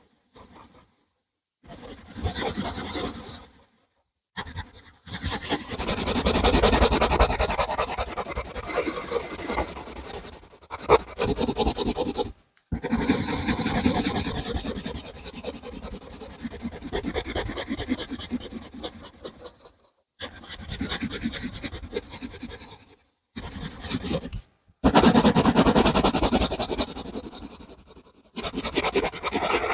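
Colouring strokes on paper: a tool scribbled rapidly back and forth in long stretches, with a few short pauses between them.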